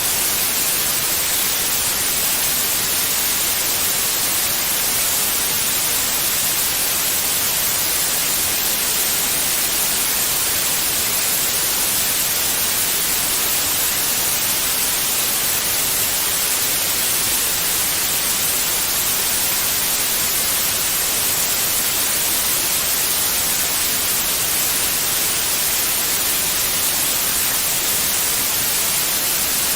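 Steady electronic white noise, a constant even hiss that is strongest in the treble, played as a baby-soothing sound.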